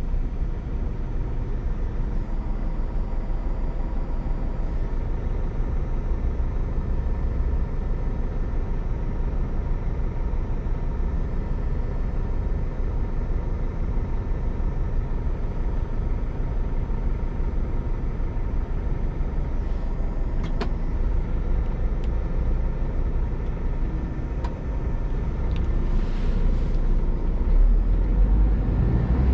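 Scania G410 tractor unit's six-cylinder diesel running steadily while driving, with low road rumble; it gets louder about 25 seconds in, and a couple of short hisses come through near the end.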